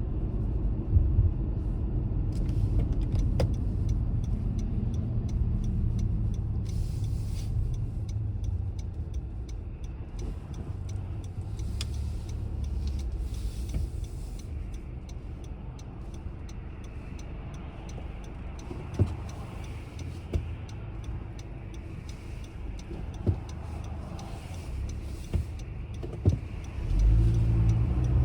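Car driving, a steady low rumble of engine and tyres that eases off through the middle and picks up again sharply near the end, with a few short clicks or knocks scattered through it.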